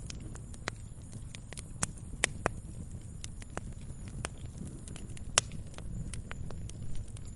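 Wood fire crackling in a fireplace: irregular sharp pops and snaps over a low steady rumble of the flames, with one louder pop a little after halfway.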